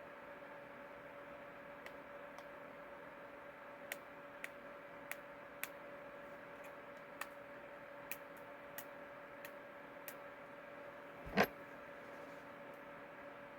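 Faint small plastic clicks, about a dozen scattered over several seconds, as the cap of a spray candy bottle is fiddled with in a struggle to open it, then one louder knock near the end. A steady hum runs underneath.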